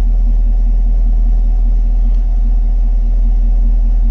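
2020 Chevrolet Camaro SS's 6.2-litre LT1 V8 idling with a steady, deep rumble.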